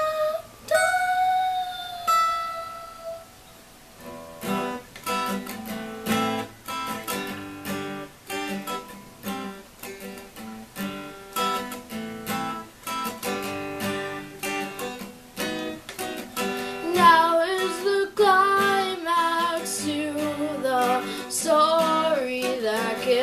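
Acoustic guitar picked in a steady repeating pattern, opening with a few long held notes. From about 17 s a wordless vocal melody sings over it.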